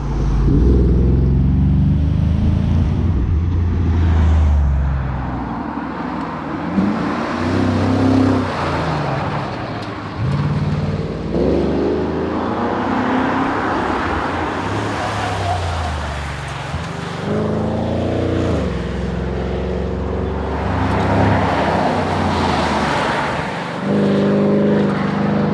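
Holden VE SS Commodore's 6.0-litre V8 driven hard on a tarmac rally stage, its note climbing in pitch again and again as it accelerates through the gears and dropping back at each shift or lift, with road and wind noise underneath.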